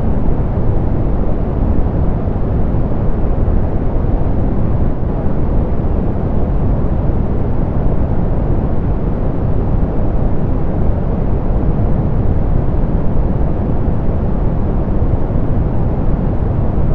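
Steady, unchanging soft pink noise: an even, deep hiss with most of its weight in the low end and little treble.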